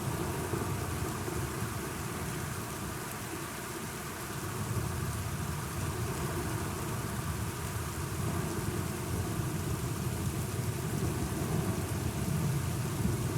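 Steady rain with a low, rolling rumble of thunder underneath, swelling a little about a third of the way in and again near the end.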